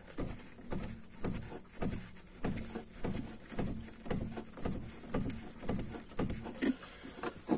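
Car front suspension strut knocking in a steady rhythm, about two dull knocks a second, as the car is worked up and down. Its mounting bolts are already tightened, yet the knock remains.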